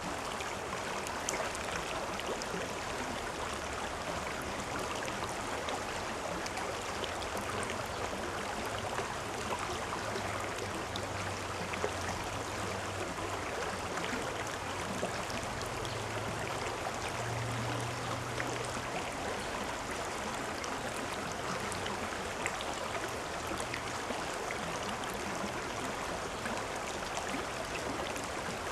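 A river or stream flowing, a steady even rush of water. A low hum comes in about nine seconds in and fades out shortly before twenty seconds.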